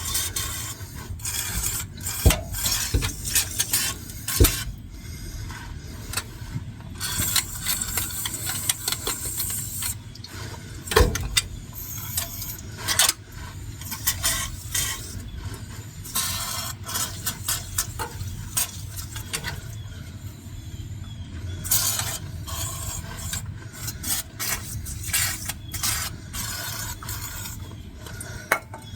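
PB Blaster penetrating oil sprayed from an aerosol can in hissing bursts, with irregular metal clinks and knocks from tools on the truck's chassis.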